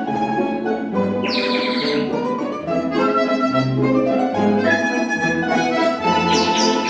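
Folk-instrument orchestra led by bayans and accordions playing the waltz, with sustained chords and moving melody lines. A quick falling, chirp-like flourish comes twice, about a second in and near the end.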